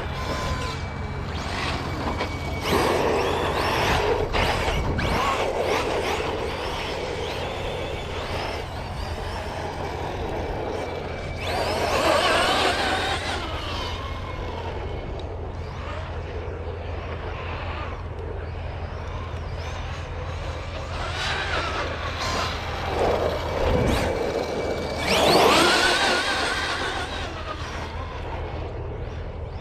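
Electric RC cars' brushless motors whining up and down in pitch as they accelerate and pass on pavement, with two louder passes, about twelve seconds in and near the end, over a steady low rumble.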